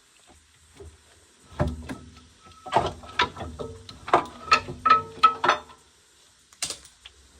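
Metal clanking: a rapid run of about a dozen knocks with a ringing tone over about four seconds, then one more knock about a second later.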